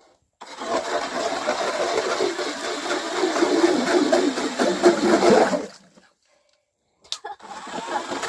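Strikemaster 8-inch electric ice auger running, its bit grinding through ice, for about five seconds. It stops suddenly, then starts up again near the end.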